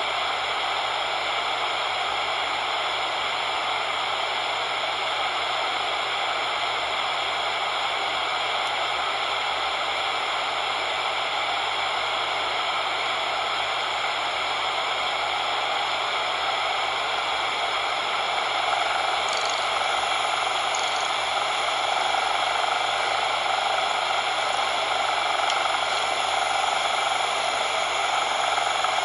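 Steady synthetic coloured noise, an even hiss centred in the middle range, growing slightly louder about two-thirds of the way in.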